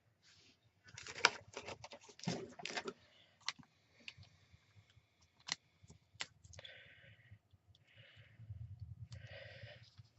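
Crafting supplies being handled at a desk: dimensionals and card stock clicking and crinkling, with a close run of clicks about a second in and scattered sharp clicks and soft rustles after.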